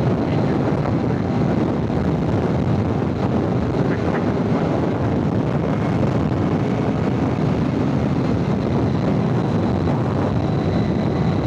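Steady, heavy wind noise battering the rider's microphone on a motorcycle at speed, with the bike's running noise mixed underneath.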